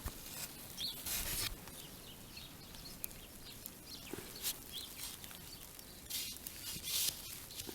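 Crunching and rustling of snow and clothing as a yardstick is pushed down into the snow to measure its depth, in short bursts about a second in, then near the middle and twice near the end. A few faint bird chirps sound in between.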